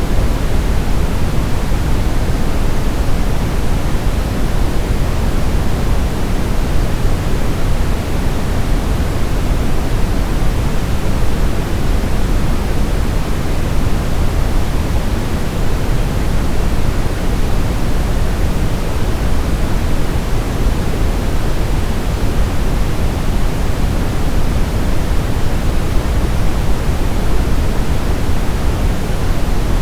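Steady sleep-aid noise, even and unchanging, heavier in the low end than at the top: a deep, constant hiss.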